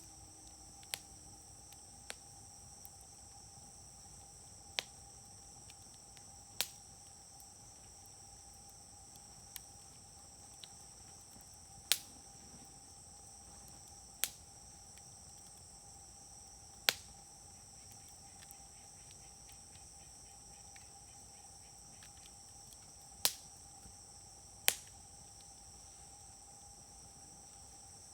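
Wood fire popping, with sharp, irregular pops every second or few seconds, the loudest about 12, 17 and 25 seconds in. Under it a steady chorus of insects chirring.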